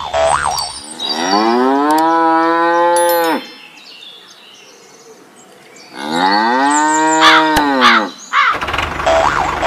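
A cow mooing twice, each moo a long drawn-out call of about two and a half seconds that rises in pitch and then falls away, with short bird chirps between and around them.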